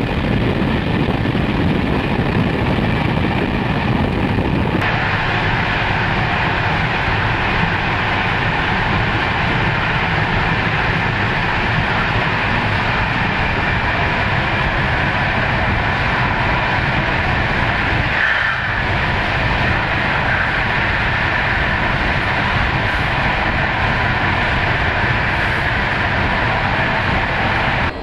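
Loud steady running noise of a passenger train coach at full speed: wheels on the rails and rushing air. The sound changes abruptly about five seconds in, from the open window to inside the coach.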